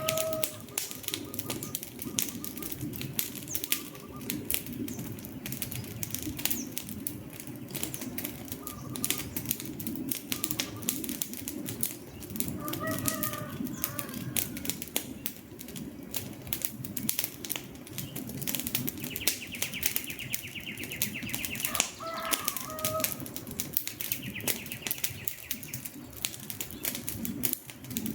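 Wood fire crackling, with dense sharp pops and snaps over a low rush of flames. A bird calls briefly at the start, about 13 seconds in and about 22 seconds in. A high buzzy trill sounds twice in the second half.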